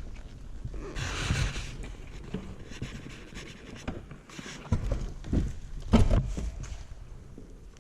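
Rustling and scraping close to the microphone, broken by a few bumps and knocks, the loudest about six seconds in.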